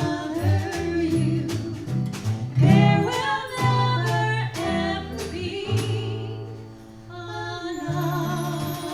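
A small jazz band playing live: guitar chords and low notes under a wavering lead melody, with percussion hits. The music dips briefly about seven seconds in.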